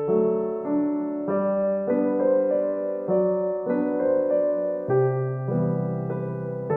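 Background piano music, a gentle melody of notes and chords changing about every half second.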